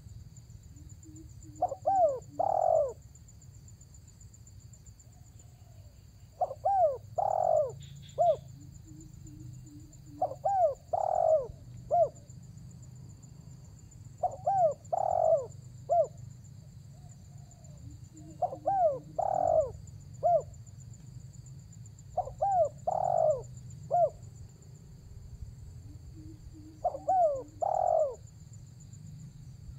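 Spotted dove (tekukur) cooing: the same call phrase repeats about every four seconds, seven times, each a soft low note followed by three louder coos.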